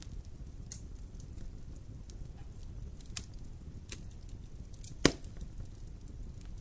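Wood fire burning in a fireplace, crackling with scattered small snaps over a low steady rumble of the flames, and one loud pop about five seconds in.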